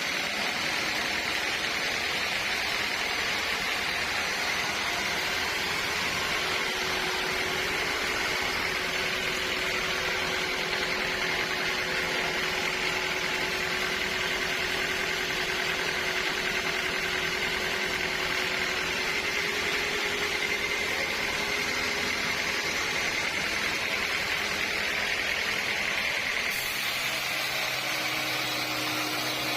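Sawmill machinery running steadily: a constant mechanical drone with a high hum, unchanging throughout.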